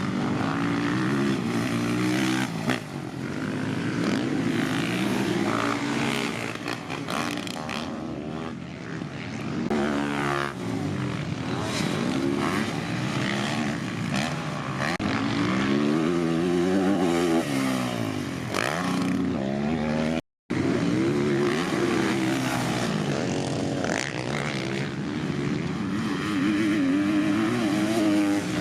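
Dirt bike engines revving, their pitch climbing and falling over and over as the bikes accelerate and shift. The sound cuts out completely for a moment about two-thirds of the way through.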